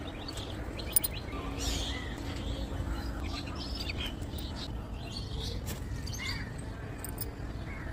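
Small birds chirping repeatedly in short, high calls over a low steady background rumble, with one sharp click about a second in.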